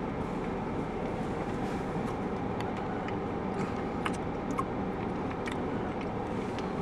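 Car air conditioning running steadily in the cabin, a constant blowing hum, with a few faint light clicks over it.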